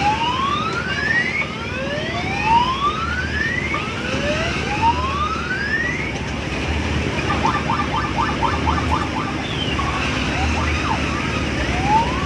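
Electronic siren-style 'whoop' sound effect rising in pitch over and over, about one every two seconds, with a quick run of rapid beeps about eight seconds in, over the steady din of a busy fairground.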